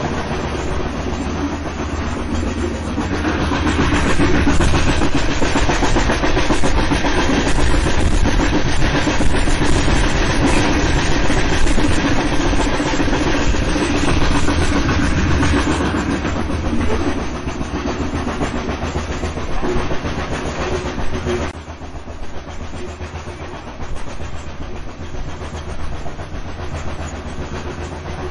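Train running on the rails: a steady rumble with the clickety-clack of the wheels. It swells a few seconds in and drops suddenly in level about 21 seconds in.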